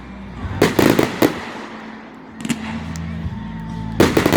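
Fireworks shells bursting: a quick cluster of bangs about half a second in, a couple more near the middle, and a rapid run of bangs near the end.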